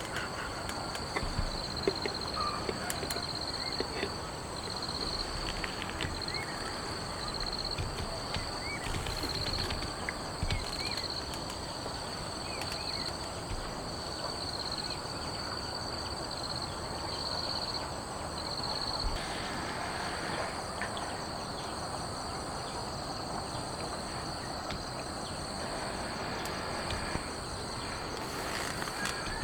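Crickets or other night insects trilling steadily in a high, pulsing chorus over a dense, even background hiss.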